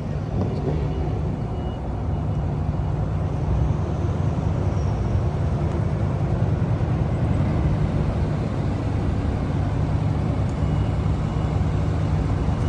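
Loud exhaust of a Datsun Z kaido racer's straight-six engine idling steadily, a deep, even note with no revving.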